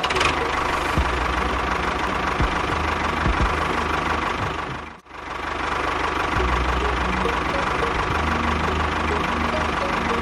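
A small engine running steadily with a rapid knocking beat. It breaks off for a moment about halfway through, then carries on.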